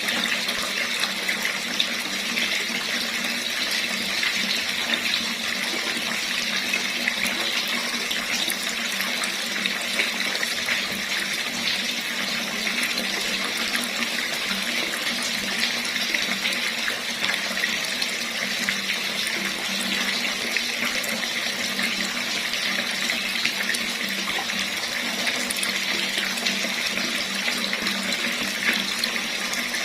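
Water running steadily from a tap, an even splashing rush that does not change.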